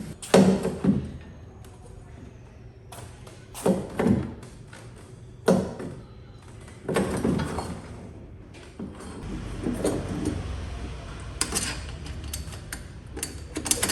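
Scattered knocks and clunks, about eight separate ones a second or two apart, as things are handled in a workshop.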